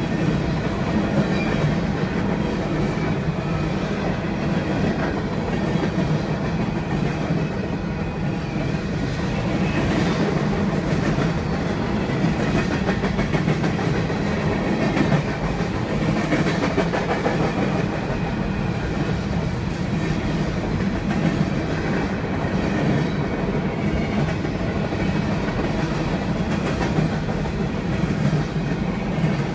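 Union Pacific mixed freight train of empty centerbeam flatcars and gondolas rolling past at a grade crossing: a steady rolling rumble of steel wheels on rail with occasional clacks, heard from inside a car.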